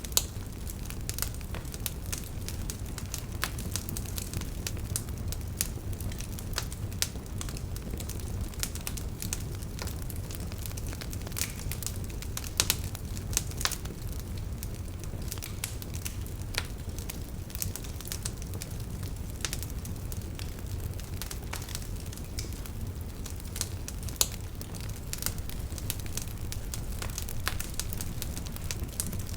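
Wood fire crackling: irregular snaps and pops over a steady low rumble, with a few sharper pops standing out.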